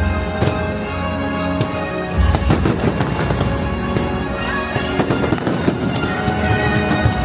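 Fireworks show with its music soundtrack: music plays throughout, a deep boom lands about two seconds in, then a rapid string of bangs and crackles over the music.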